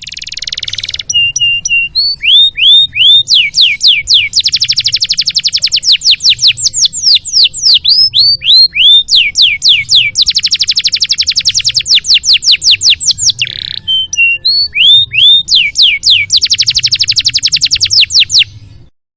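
Canary song: long rolls of rapid, repeated downward-sweeping notes, broken by slower single sweeps, with a faint low hum underneath. The song stops abruptly near the end.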